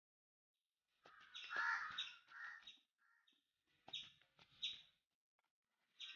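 Birds calling in the garden trees, faint: a harsh call from about a second in, then a run of short, sharp chirps past the middle.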